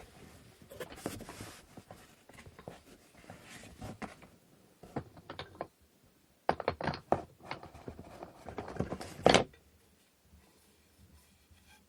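Parts of a wooden inkle loom being handled: light rustling and small clicks, then a run of sharper wooden knocks and clatter about halfway through, the loudest just past nine seconds in.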